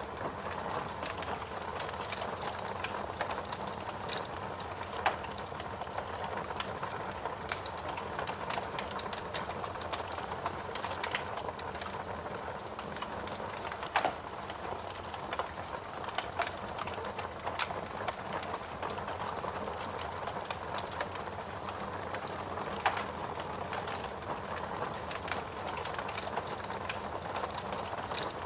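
Log fire burning in a fireplace: a steady hiss with frequent small crackles and three louder pops spread through.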